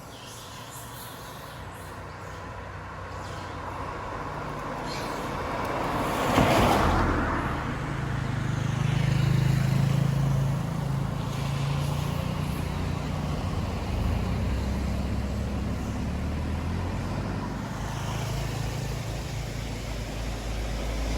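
Motorbike engine running and getting louder over the first several seconds as it picks up speed, its note shifting as it goes, with a rush of wind noise about six seconds in.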